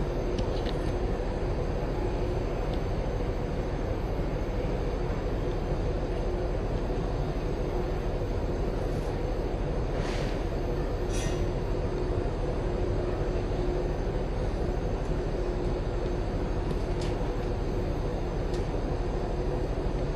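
Air handling unit supply fan running steadily: a constant rush of air with a steady hum, and a couple of faint ticks about halfway through.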